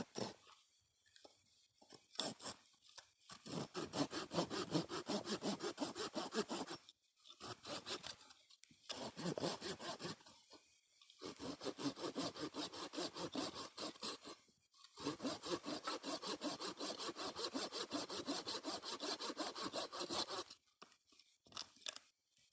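Hand saw cutting through firewood with quick back-and-forth strokes, in several bouts of a few seconds each with short pauses between.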